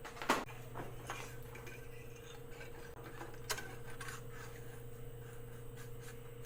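Light clicks and knocks of metal tooling being handled on a mill table, over a steady electrical hum. The two sharpest clicks come about a third of a second in and about three and a half seconds in.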